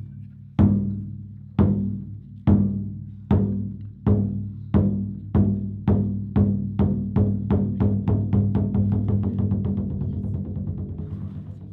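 Taiko drums struck in a steadily accelerating pattern. The beats start about one a second and quicken into a fast roll, which fades gradually near the end, each stroke leaving a deep ring.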